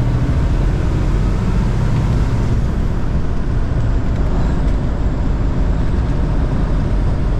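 Diesel engine of a 1989 Kenworth K100E cab-over truck running steadily under way, with road noise.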